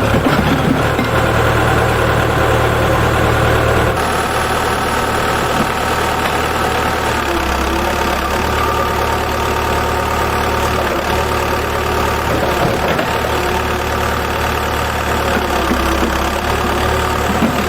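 An engine idling steadily, a continuous machine hum with no pauses, easing slightly in level about four seconds in.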